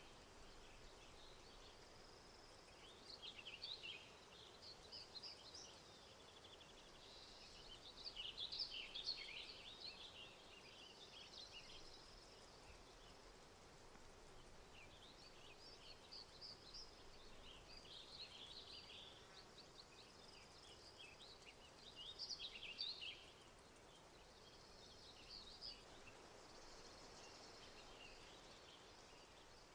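Faint songbirds singing: quick, chattering runs of high notes coming in bursts every few seconds over a steady faint background.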